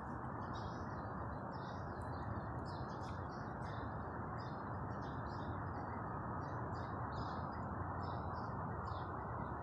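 Birds chirping in short, scattered calls, one or two a second, over a steady low background hum.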